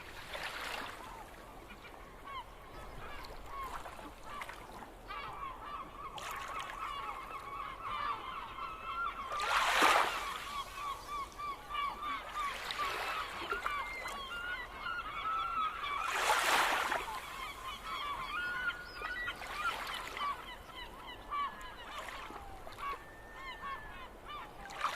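A flock of gulls calling, many short, rapid, overlapping calls. Several short rushing noise bursts cut through, the loudest about ten and sixteen seconds in.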